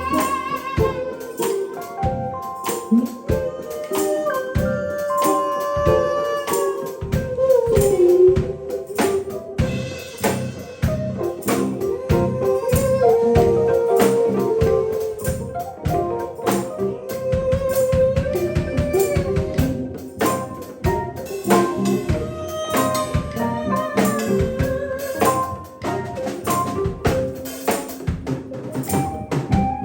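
A live band playing an instrumental passage: drum kit and tambourine keep the beat under a melody line that bends and slides in pitch, with organ filling in.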